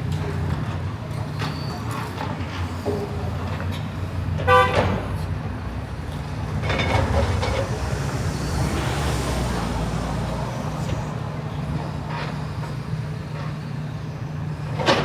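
Steady low engine hum of road traffic or machinery, with a short vehicle horn toot about four and a half seconds in.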